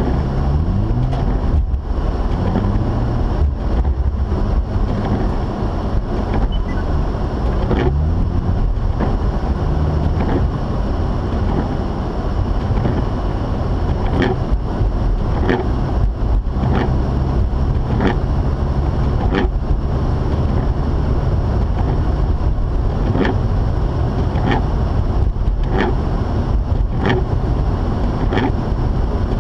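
Mazda RX-8's two-rotor rotary engine and road noise of the car driving, the engine pitch rising as it picks up revs twice in the first eight seconds. In the second half a light click repeats about every second and a third.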